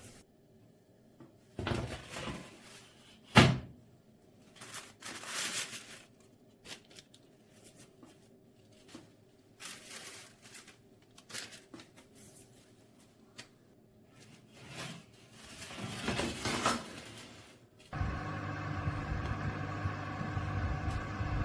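Kitchen handling noises: scattered knocks, scrapes and clatters, with one sharp knock about three seconds in. From about eighteen seconds in, a steady mechanical hum runs, like a small kitchen appliance.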